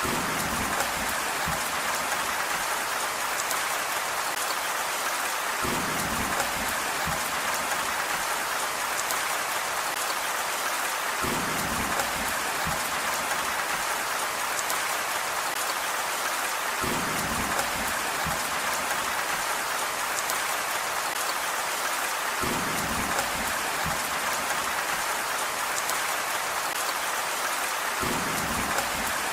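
Steady rain hiss, with a deeper burst of patter, heavy drops or a soft rumble, swelling in for a second or so about every five to six seconds.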